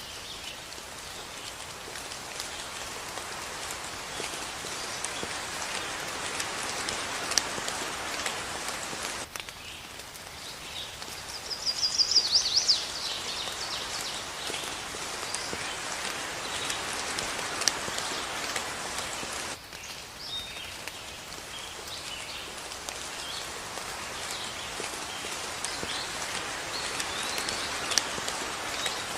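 Steady rain falling, with scattered single drops ticking on a surface. About twelve seconds in, a bird sings a quick run of high chirps, the loudest thing heard; the rain sound drops suddenly and builds back twice, near nine and twenty seconds in.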